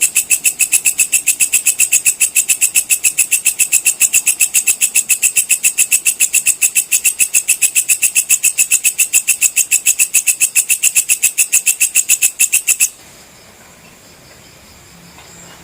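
Walang kecek (belalang kecek) insect calling: a fast, even train of loud ringing chirps, several a second and high-pitched, that stops abruptly about thirteen seconds in, leaving only faint background noise.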